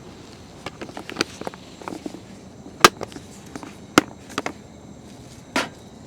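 Dishes and cutlery being handled: a run of light clicks and knocks, with two sharper clanks about three and four seconds in.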